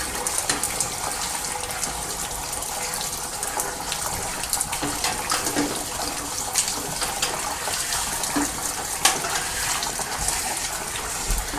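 Water spraying from a homemade washout wand into a steam boiler during its final washout: a steady rushing hiss with scattered brief splashes and knocks.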